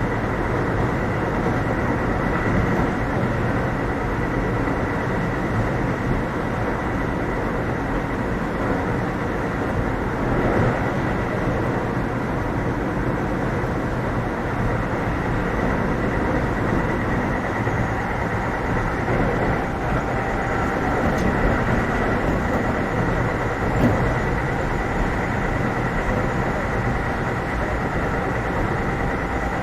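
Keio 7000 series electric train running at speed, heard from inside the passenger car: a steady rumble of wheels on rail with a steady high tone running through it.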